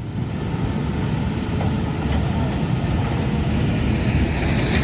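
Heavy construction machinery's diesel engine running steadily, a deep rumble with no breaks.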